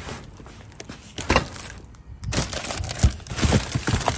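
Plastic stretch wrap crinkling and cardboard boxes rubbing and knocking as they are shifted by hand, uneven, with sharper knocks about a second in and about three seconds in.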